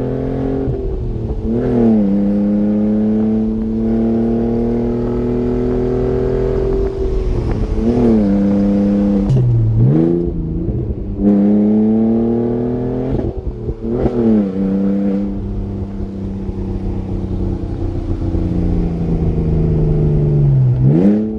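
2003 Audi A4 engine running open-piped, exhaust cut off behind the catalytic converters, while the car is driven. The engine note holds fairly steady, then drops sharply and climbs back about five times, as with lifting off and changing gear in the six-speed manual.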